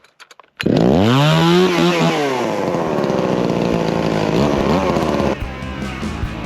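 Two-stroke chainsaw revving up and running flat out. Its engine note rises sharply and then holds, until it gives way about five seconds in.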